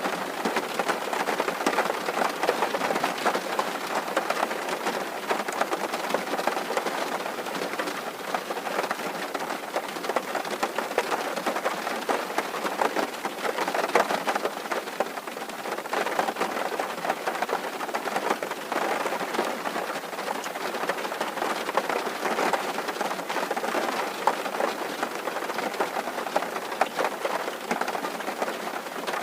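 Rain falling steadily on a tin roof: a dense, even patter of drops on the metal.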